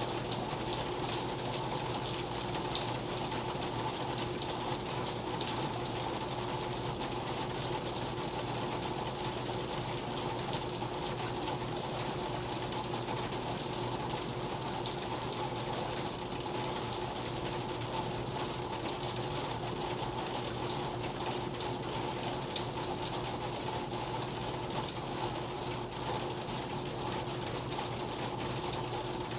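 Steady rain with a dense, fast patter of drops ticking.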